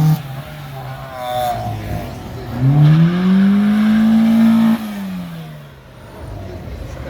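A car engine revved hard once, its pitch climbing steadily for about two seconds and held, then let off suddenly so the revs fall away.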